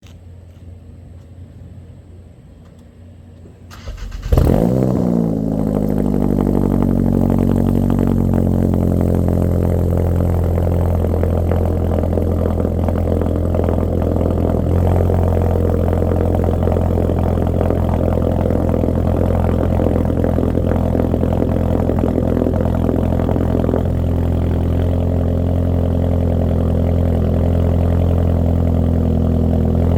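Mk7 Volkswagen's turbocharged 2.0-litre four-cylinder cold-started through an MBRP cat-back exhaust with a catted CTS downpipe and resonator: it cranks and catches about four seconds in, flares, then falls back to a steady fast cold idle.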